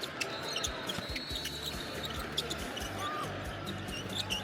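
Basketballs bouncing on an indoor court: repeated irregular thuds from several balls at once.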